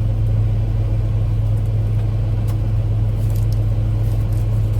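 Steady low hum of an idling vehicle engine, with a few faint clicks over it.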